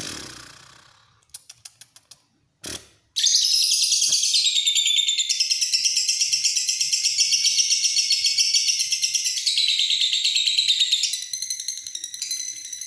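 Lovebird 'ngekek': a long unbroken run of very fast, shrill high-pitched chattering, starting about three seconds in after a few faint ticks and a short burst.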